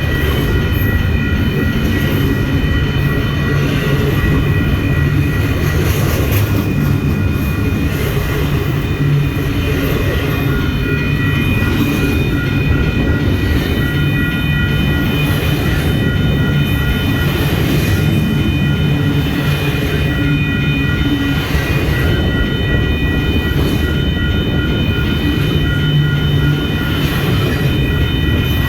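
A train passing close by: a loud, steady rumble of railcars rolling on the track that never lets up, with a thin steady whine above it.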